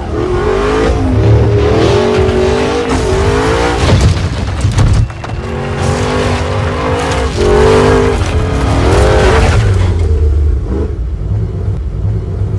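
Car engine running and revving hard, its pitch rising and falling several times over a low rumble.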